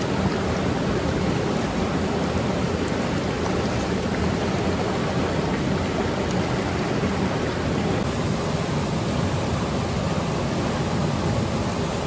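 Steady, even rush of water, with no separate splashes or drops standing out.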